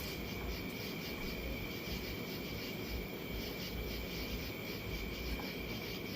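Chorus of night insects calling in a steady, even pulse of about five chirps a second, over a continuous high buzz and a low rumble.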